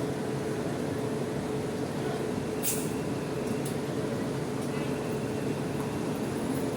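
Steady din of idling bus engines in a bus terminal, with a short, sharp hiss a little under halfway through.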